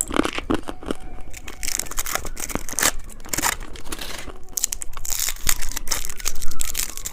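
Plastic candy wrappers torn open and crinkled by hand, in a run of quick sharp rustles and longer crackling stretches.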